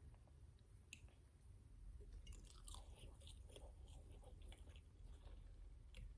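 Faint close-miked chewing: soft, wet mouth clicks and small crackles, busiest in the middle.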